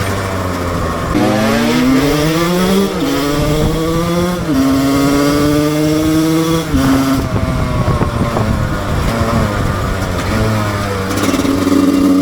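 Husqvarna SM 125 two-stroke motorcycle engine under way, its revs climbing and dropping in steps as it shifts up through the gears in the first few seconds. It then holds steady, falls back about seven seconds in and picks up again near the end.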